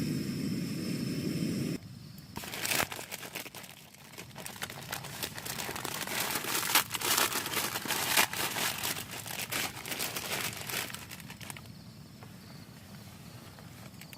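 A steady low rushing noise stops suddenly about two seconds in. Then comes about ten seconds of irregular crinkling and rustling, like plastic packaging being handled, which dies down near the end.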